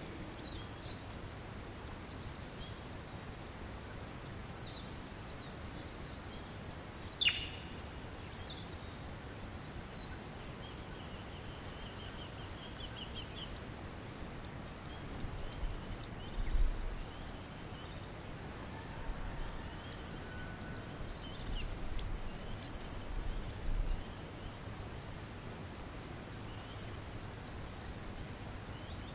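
Bushland birdsong: small birds chirping and twittering in quick high notes, thicker from about a third of the way in, with one sharp falling call about seven seconds in. A low rumble comes and goes in the middle, over a steady background hiss.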